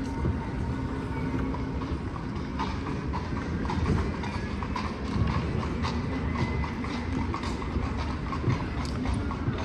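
Horse's hooves clip-clopping steadily on the street as it pulls a carriage, over the steady low rumble of the carriage's wheels.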